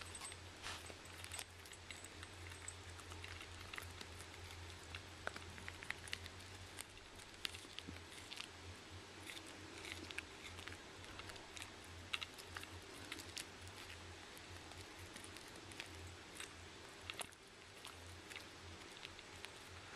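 A dog gnawing on a chew: faint, irregular crunches and clicks of teeth on the chew, over a steady low hum.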